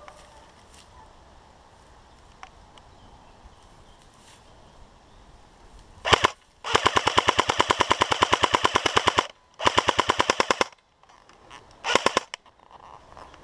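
Airsoft gun firing on full auto in rapid bursts: a short burst, a long burst of about two and a half seconds, a shorter one, then a last short burst.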